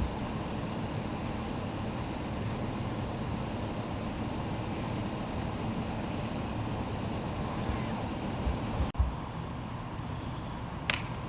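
Steady rumble of idling vehicle engines and road noise. A brief dropout comes about nine seconds in, and a single short, sharp click comes near the end.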